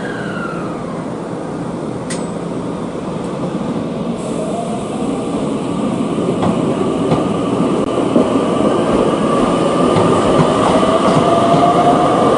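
Electric commuter train running, its motor whine falling in pitch over the first second, then a new whine rising slowly in pitch from about four seconds in as the running noise grows louder.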